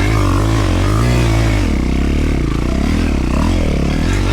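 Dirt bike engine revving up and down in repeated swells, the throttle worked again and again.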